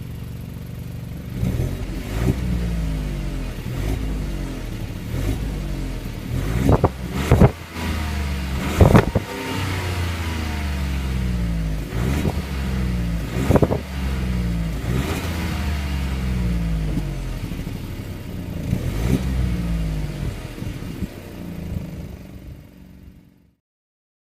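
Stock exhaust of a 2017 Audi A3 8V's 1.0 TFSI three-cylinder turbo petrol engine, the engine speed rising and falling again and again. Several sharp knocks stand out around the middle, and the sound cuts off shortly before the end.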